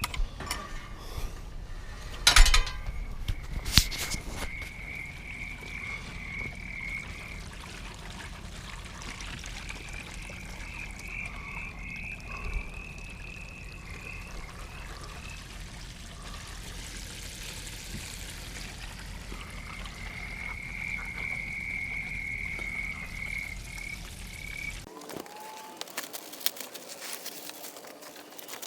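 An animal calling in high, pulsed trills, three bouts of several seconds each, over a steady low hum. Two sharp knocks come in the first few seconds, and the hum stops abruptly near the end.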